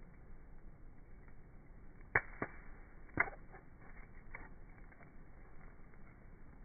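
Campfire wood crackling: a few sharp pops about two, three and four seconds in, over a faint steady hiss.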